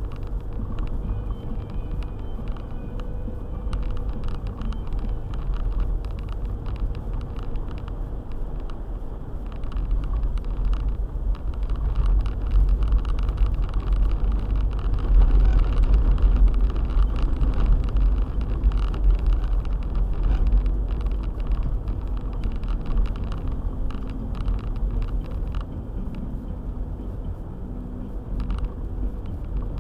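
Car driving on a snow-drifted road: a steady low rumble of engine and tyres, with many small clicks and knocks scattered through it. It grows louder from about ten seconds in and eases off again after about twenty seconds.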